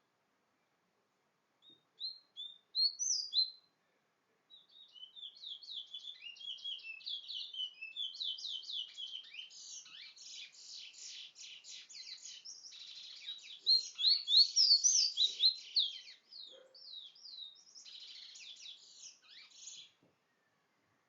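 A small songbird giving a few sharp chirps, then singing a long, rapid, continuous warbling song of quick high notes that grows loudest toward the middle and stops just before the end.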